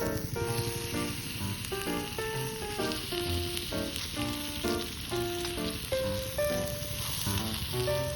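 Food sizzling as it fries in a pan, an even hiss that starts right at the beginning. Background music with a plucked-sounding melody plays over it.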